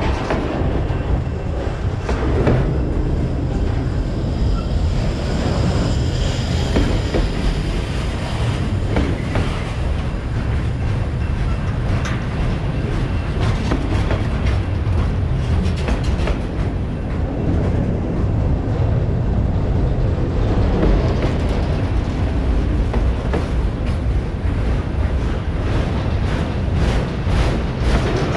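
Freight train rolling past: a steady, loud low rumble with the repeated click of wheels over rail joints, the clicks coming thicker near the end.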